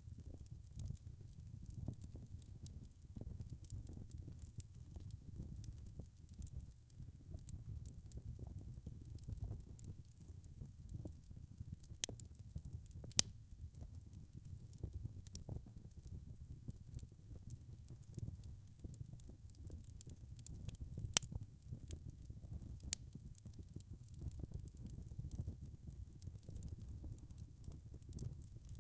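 Wood fire crackling: a low steady rumble of burning with frequent small snaps, and a few sharper pops about twelve, thirteen and twenty-one seconds in.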